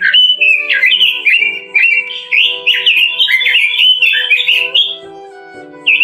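Red-billed leiothrix singing a loud, fast run of warbled phrases. It breaks off for about a second near the end, then starts again. Soft instrumental music with held notes plays underneath.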